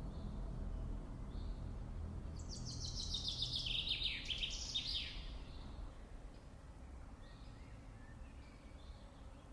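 A songbird singing one quick trilled phrase of notes that fall in pitch, about two and a half seconds long, with faint short bird calls around it over a steady low background rumble.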